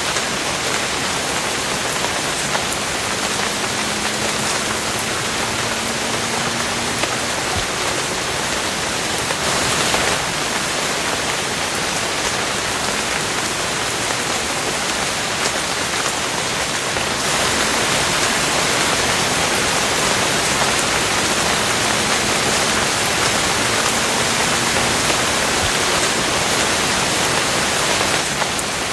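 Steady rain falling, a dense, even hiss of drops. It swells briefly about ten seconds in and gets somewhat louder a little past halfway through.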